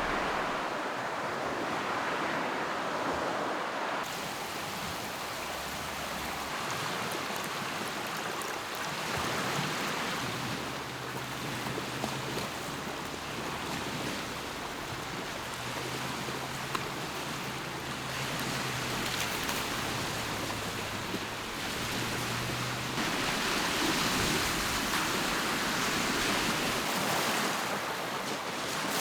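Lake waves washing against the shore, a steady rush that swells and eases.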